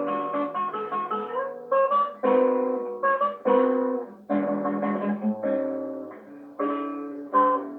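Acoustic guitar playing a bossa nova tune: plucked chords with melody notes picked over them.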